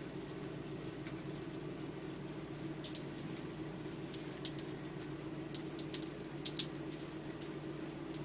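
Steady rain with water streaming, and irregular sharp drips ticking.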